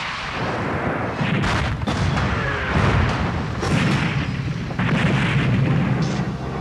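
A series of explosions, about six heavy booms a second or so apart, over a continuous low rumble, from weapons just fired on a strike run.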